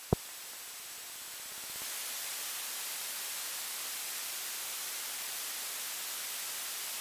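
Steady hiss of static on the cockpit intercom and radio audio feed. It opens with a single sharp click and grows louder about two seconds in.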